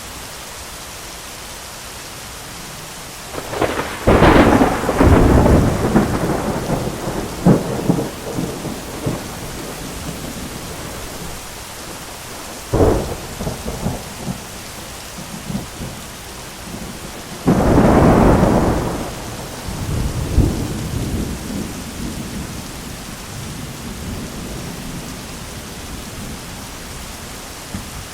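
Steady heavy rain with thunder breaking over it three times: a loud crack about four seconds in that rolls on for several seconds, a sharp clap near the middle with a shorter rumble, and another loud peal about two-thirds of the way through that rumbles away slowly.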